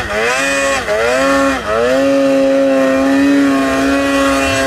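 Polaris 9R snowmobile's two-stroke engine running hard on the throttle. Its pitch dips twice in the first two seconds, then holds high and steady.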